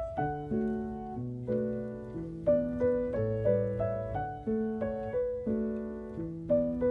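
Background music: a gentle piano piece playing note by note, with soft repeated chords and a melody over a low bass line.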